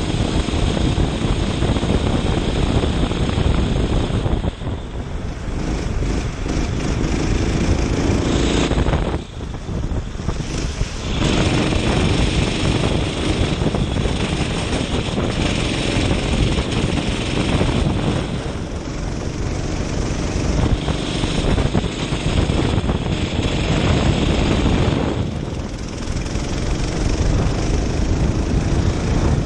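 Kart engine heard on board at racing speed, dropping briefly when the driver lifts for corners (about 4, 9, 18 and 25 seconds in) and building again on the throttle.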